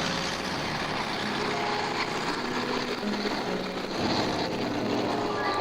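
Propeller piston engines of First World War-type biplanes, SE-5As among them, flying past the crowd. Several engine tones at different pitches shift up and down over a steady rush of noise.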